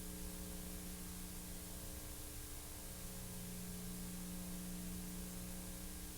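Steady hiss with a low electrical hum underneath: the noise floor of a silent film's soundtrack, with no other sound in it.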